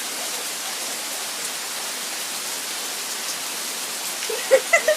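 Heavy rain falling steadily, an even hiss of rain on surfaces all around. Near the end, a few short bursts of a person's voice rise above it.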